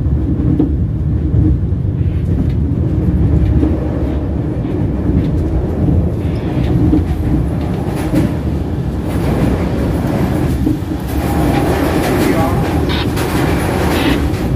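Train wheels running on the rails: a steady low rumble with a few sharp clicks as the wheels cross rail joints, turning hissier in the second half.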